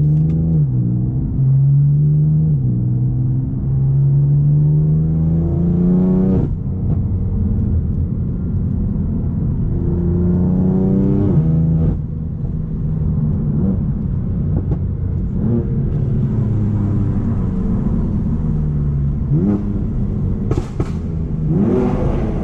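BMW M4's twin-turbo straight-six running through a straight-piped Akrapovic exhaust with the catalytic converters removed, under hard acceleration. The revs climb and drop suddenly about six seconds in and again about twelve seconds in, with a steadier cruise between pulls and another climb near the end.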